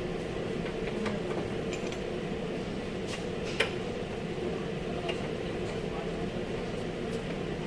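Steady machine hum with a few light clicks and clinks of tools on car body parts, the sharpest about three and a half seconds in.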